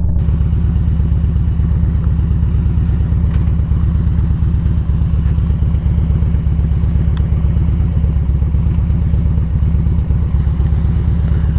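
A motorcycle's V-twin engine idling steadily with an even, low pulse.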